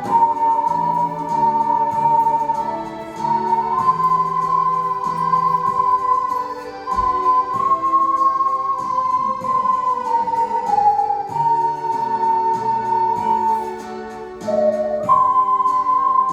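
An ocarina ensemble playing a slow melody in unison, in long held notes, over a lower accompaniment.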